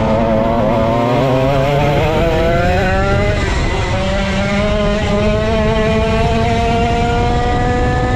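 Vintage Dino go-kart's 135cc Sudam engine under racing load. It climbs in pitch, drops back about three seconds in, then winds up again in one long steady rise.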